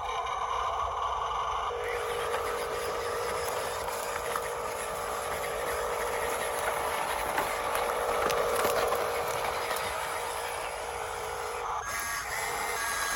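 Radio-controlled dump truck's electric motor and gearbox running steadily with a whine, briefly dropping and changing pitch near the end.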